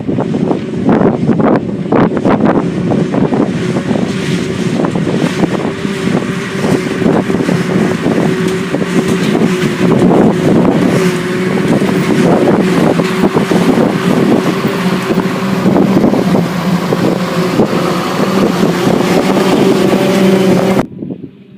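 Loud silage-harvesting machinery running: a steady engine drone with irregular clattering and wind buffeting on the microphone, cutting off abruptly just before the end.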